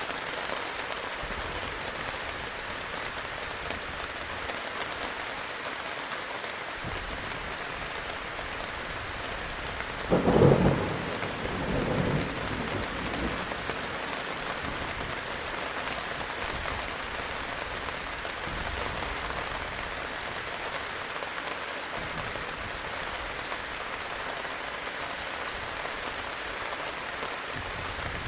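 Heavy rain falling steadily, with one crack and roll of thunder about ten seconds in that swells again shortly after and fades away.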